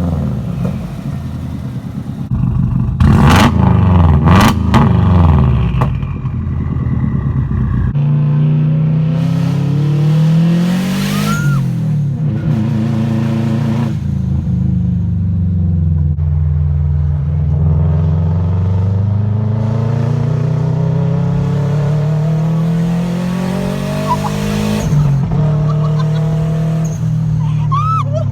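2004 Subaru WRX's turbocharged flat-four engine, fitted with a Garrett GTX3576R turbo running about 10 psi, revving up and down repeatedly as it is driven hard. It is loudest and most ragged about three to six seconds in, then rises and falls smoothly in long sweeps.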